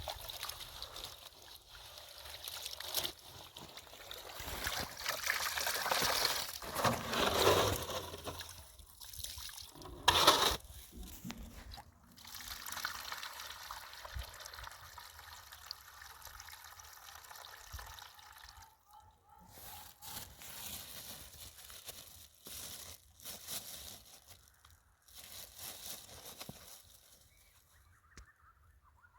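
Water poured and sloshing in irregular spells, loudest in the first ten seconds, with a sharp knock about ten seconds in, then fainter intermittent splashes that die away near the end.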